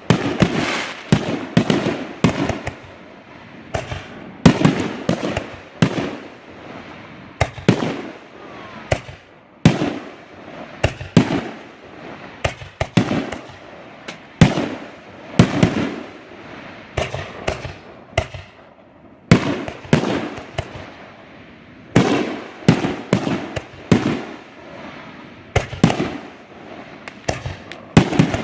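Consumer aerial fireworks going off in quick succession, a rapid string of sharp bangs and booming reports, often one or two a second, echoing after each.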